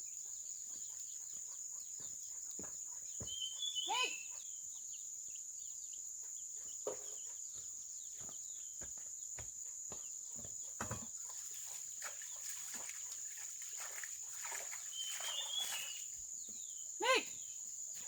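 Chickens clucking now and then, with two short calls about four seconds in and near the end, over a steady high-pitched whine and scattered light knocks.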